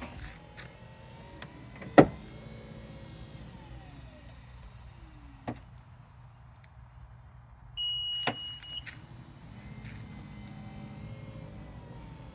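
Power tailgate of a 2016 Acura RDX Elite running on its electric motor, a whine that glides in pitch, with a sharp knock about two seconds in and another about eight seconds in, when a steady beep sounds for about a second. The knocking is the fault in the tailgate being shown.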